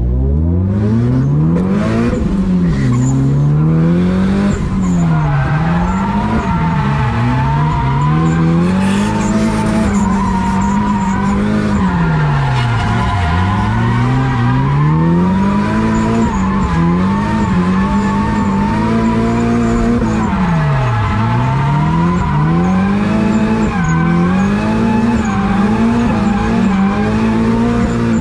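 Hyundai Genesis Coupe drift car engine revving hard, its pitch climbing and dropping every few seconds as the throttle is worked through the drifts, with tyres squealing and skidding underneath.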